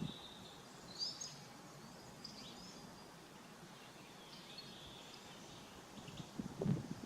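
Small birds chirping and calling intermittently over a faint steady outdoor hiss, with a short low rumble about six and a half seconds in.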